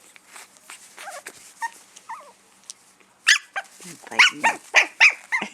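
Havanese puppy yapping: a few faint small whines at first, then a quick run of about half a dozen loud, high-pitched yaps in the last two seconds.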